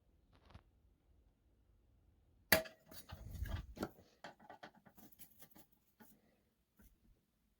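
Small hard parts being handled: a sharp knock about two and a half seconds in with a brief ring, then a run of clicks and rattles for about three seconds, and a few scattered ticks.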